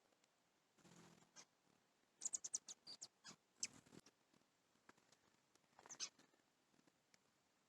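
Faint, scattered short high chips and ticks from small birds, with a quick run of them a little over two seconds in.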